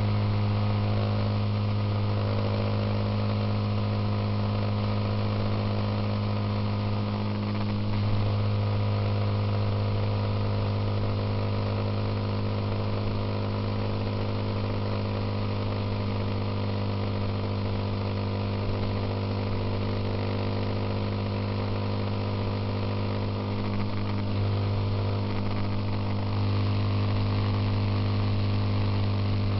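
Suzuki Intruder motorcycle engine running at a steady cruising speed with a constant drone, under a steady rush of wind and road noise. The note rises slightly a few times.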